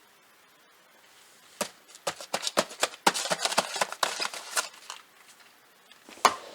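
Blind-box toy packaging handled: a quick run of crackly clicks and rustles lasting about three seconds, then a single click near the end.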